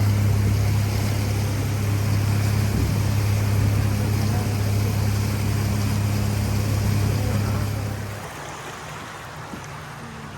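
River boat's motor running steadily over the rush of water along the hull, then dropping away about eight seconds in, leaving a quieter wash of water.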